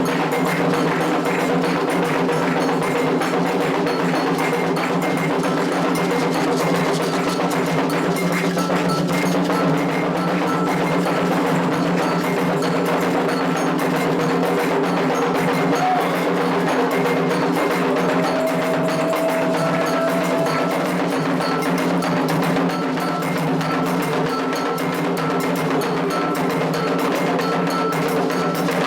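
Candomblé ritual percussion: atabaque hand drums and a metal bell keep a fast, steady rhythm over a steady low hum.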